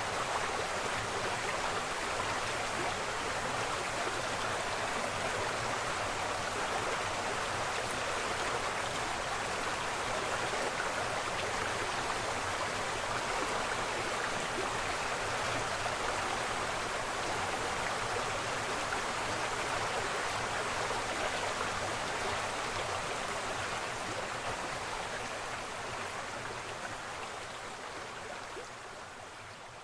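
Waterfall: a steady rush of falling, splashing water that fades out gradually over the last few seconds.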